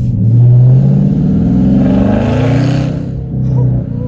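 Dodge Charger Scat Pack's 392 (6.4-litre) HEMI V8 exhaust revving. The revs climb for about two seconds, drop off, then come back in a short blip near the end.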